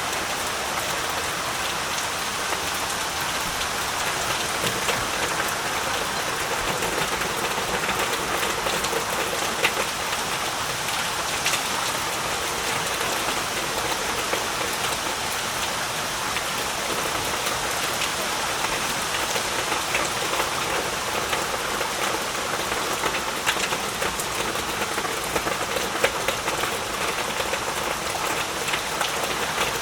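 Heavy rain falling steadily, a dense hiss with many individual drops pattering on surfaces.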